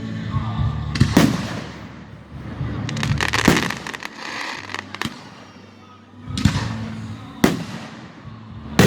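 Fireworks display: several sharp bangs of aerial shells bursting a second or more apart, with a spell of dense crackling about three and a half seconds in.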